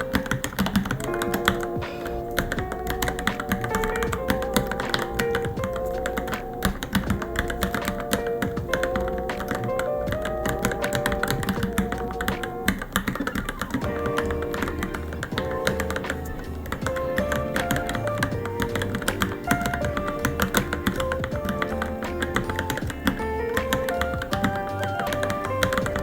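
Rapid, irregular keystrokes typed on a Varmilo Minilo mechanical keyboard, with a steady patter of key clicks, heard over background music.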